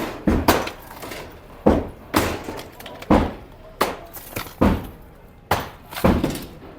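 Demolition work: a run of heavy blows and breaking crashes, about nine of them at an uneven pace of roughly one a second.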